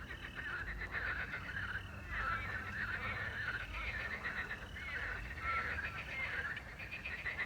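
Chorus of many frogs croaking in quick overlapping calls, over a thin steady cricket trill.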